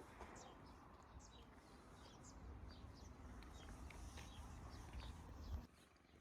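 Small birds chirping faintly: many short, quick, high chirps, over a low rumble that cuts off suddenly near the end.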